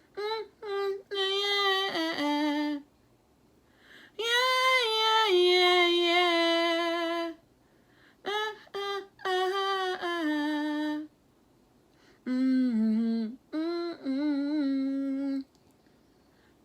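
A woman singing unaccompanied in a small room: four held, wavering melodic phrases, each a few seconds long, with short silent pauses between them.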